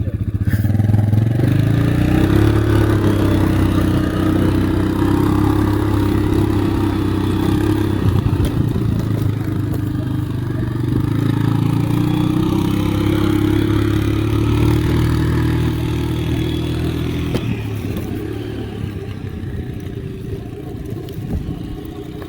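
A motorbike engine revving up and running at a steady pitch, easing off about eight seconds in, revving up again and holding, then dropping away near the end, with rattling from the bumpy trail.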